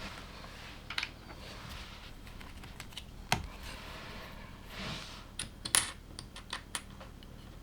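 LEGO plastic bricks being handled and snapped together: scattered sharp clicks, with a quick run of clicks between about five and seven seconds in, and soft rustling of pieces between them.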